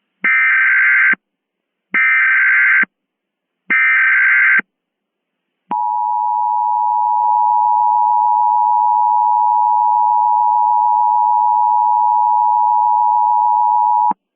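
Emergency Alert System tones: three short, warbling SAME digital header bursts, each under a second long and spaced evenly, then the two-tone EAS attention signal (853 and 960 Hz together) held steady for about eight seconds.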